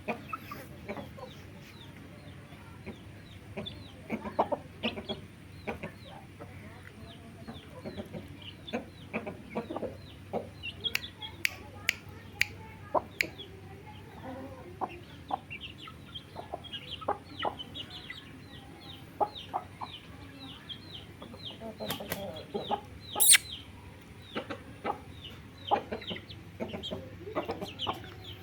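Aseel chicks cheeping throughout, many short falling peeps overlapping, with scattered sharp clicks and one loud sharp sound about 23 seconds in.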